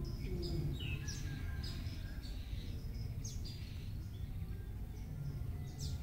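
Birds chirping and singing: many short, high notes with quick downward sweeps, over steady low background noise.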